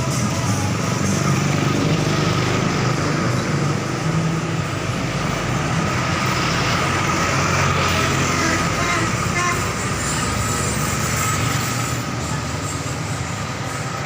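Motor vehicle engine running steadily while driving, with road noise.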